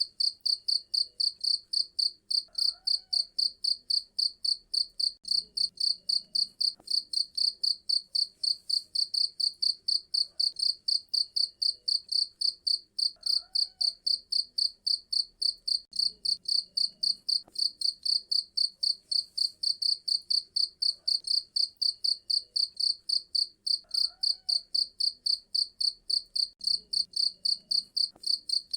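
Cricket chirping in a fast, steady train of evenly spaced high-pitched pulses.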